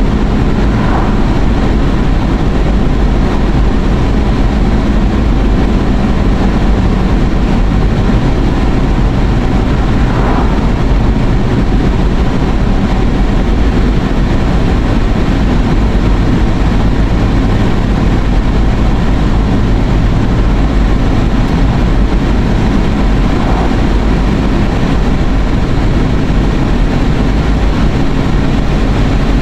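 Steady road and engine noise inside a moving car's cabin, even and unbroken, with a strong low rumble.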